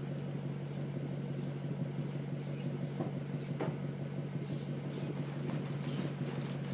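Lexus SC400's 4.0-litre V8 idling steadily through an exhaust with the resonators deleted and Top Speed rear mufflers.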